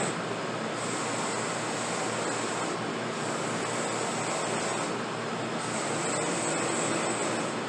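Workshop power tool running steadily, with a higher hiss that comes and goes in stretches of about two seconds.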